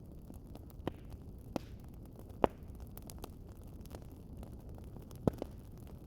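Wood fire in a fireplace burning with a steady low rumble and hiss, broken by five sharp crackles and pops; the loudest comes about two and a half seconds in, and two come close together near the end.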